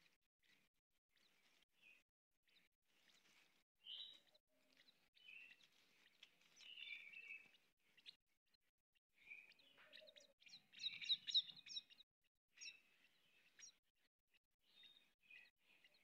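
Small birds chirping in short, scattered high calls, with a louder quick run of repeated chirps about eleven seconds in.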